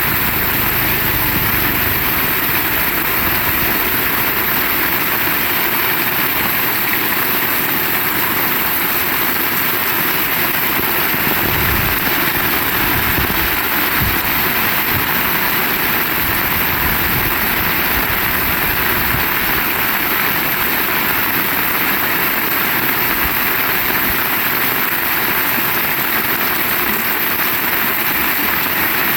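Heavy rain falling steadily, an even dense hiss with no change in level, with a few low thuds around the middle.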